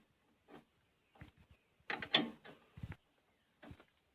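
Scattered light mechanical clicks and knocks, with a denser cluster about two seconds in, from work on the backhoe's engine belt.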